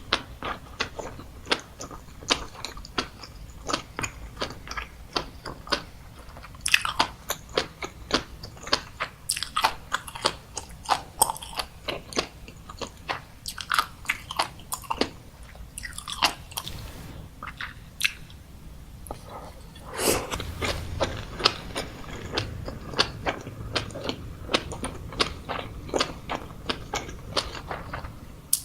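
Close-miked chewing and biting, with a steady stream of sharp popping crunches, several a second.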